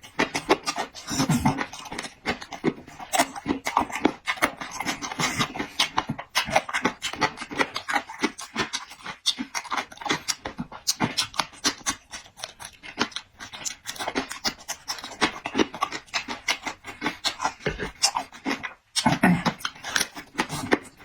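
Close-up mouth sounds of a person eating: rapid, irregular chewing, smacking and slurping.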